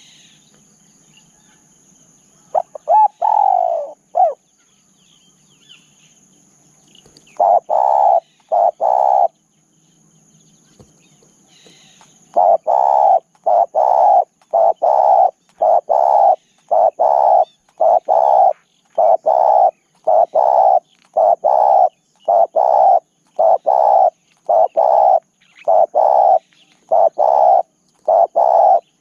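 Spotted dove cooing: a falling, sweeping call, then three short coos, then a long, evenly paced run of short coos at about three every two seconds.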